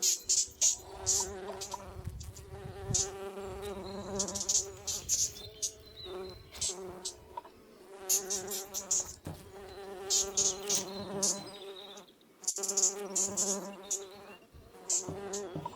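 Insects buzzing in a steady, wavering hum, broken by repeated spells of high crackling.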